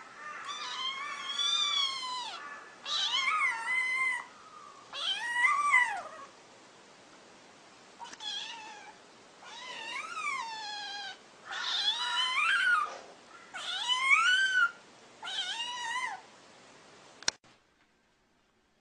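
A cat meowing over and over: about eight long, drawn-out meows that rise and fall in pitch. A single sharp click comes near the end.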